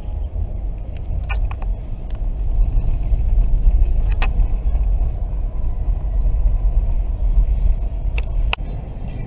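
Steady low rumble of a car's tyres and engine heard from inside the cabin while driving on a highway, with a few short clicks.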